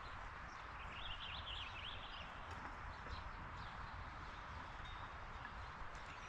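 A songbird's quick warbling chirps, lasting about a second starting about a second in, over steady outdoor background noise.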